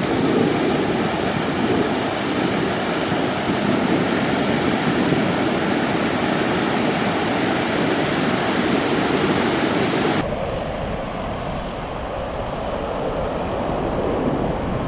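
Ocean surf washing steadily onto a beach under a typhoon swell. About ten seconds in the sound changes abruptly to a duller, lower rumble, with wind on the microphone.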